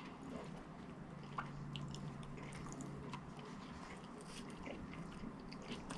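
Faint chewing and wet mouth sounds of someone eating, small scattered clicks, over a low steady hum.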